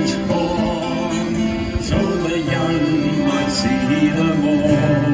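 Shanty choir singing a sea shanty to guitar accompaniment.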